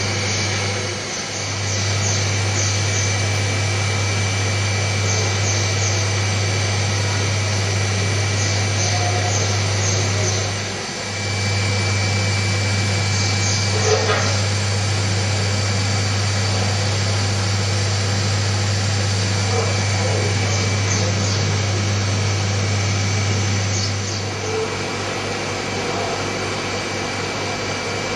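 CNC hot-wire foam cutter running as it cuts a polystyrene block: a steady low hum with a faint high whine. The hum drops out briefly twice and eases off near the end.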